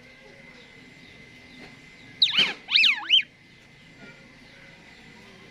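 Asian pied starling calling: a loud, brief run of two or three swooping whistles that dive and rise in pitch, about two seconds in.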